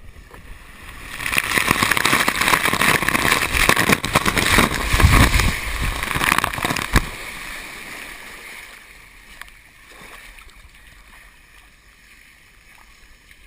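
Rushing water and air noise on the camera during a water-slide ride. It swells about a second in, stays loud for several seconds and ends with a sharp knock, then dies down to a quieter wash of water.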